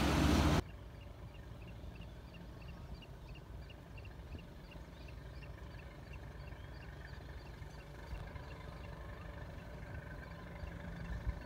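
A small bird giving a rapid series of short, high chirps, about three a second, over a low steady rumble. It follows a loud rush that cuts off sharply about half a second in.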